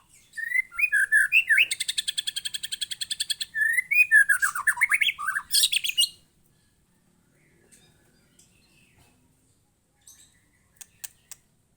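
Young white-rumped shama singing: loud whistled phrases with a fast rattling trill in the middle, for about six seconds, then stopping, with only a few faint clicks near the end.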